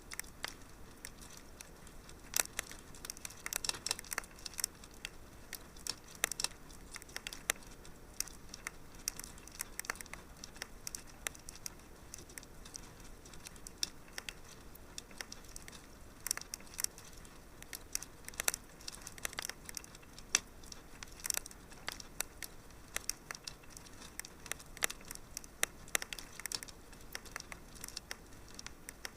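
Fireplace fire crackling: irregular sharp pops and snaps, some in quick clusters, over a faint steady hiss.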